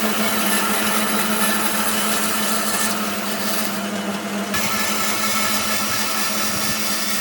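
A woodworking power tool's motor running steadily with a hiss of cutting wood; the hiss drops away from about three seconds in and comes back abruptly about a second and a half later.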